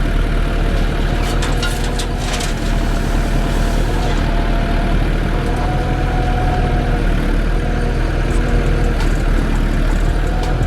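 Heavy diesel engine of jobsite machinery running steadily at a low, even pitch, with a few sharp knocks about one to two and a half seconds in.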